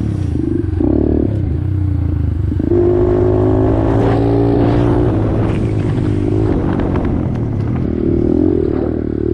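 Pit bike's small single-cylinder engine running, with the throttle opened about three seconds in and held for a couple of seconds before it settles back.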